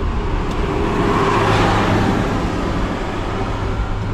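Car and road traffic noise: a steady engine and road hum, swelling about a second and a half in as a vehicle passes.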